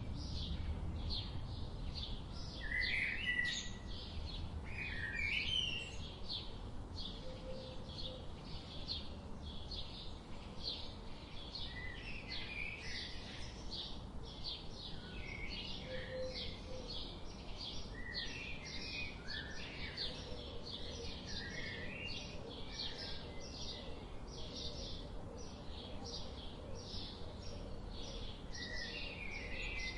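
Songbirds singing: a steady series of short, high chirps about two a second, with other birds' brief warbled phrases in between, over a low steady background rush.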